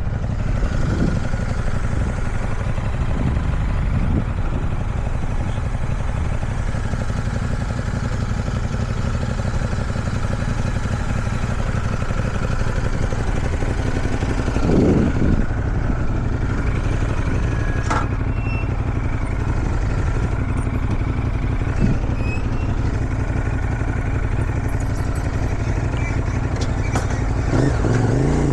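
Motorcycle engine running steadily while riding, with wind rushing over the microphone. Briefly swells about halfway through, and the engine note starts to rise right at the end.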